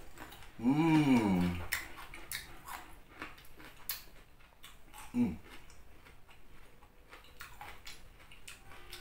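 Close-up chewing of raw cucumber: irregular crisp crunches, with a hummed 'mmm' that rises and falls about a second in, the loudest sound, and a shorter hum a little past the middle.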